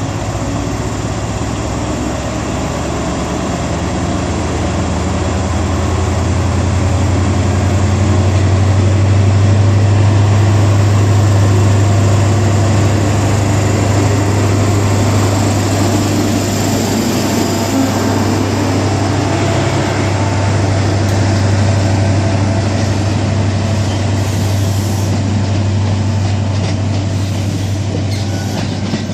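Diesel power car of a High Speed Train (InterCity 125) pulling away, its engine running hard under load with a deep steady hum that builds over the first several seconds and then holds.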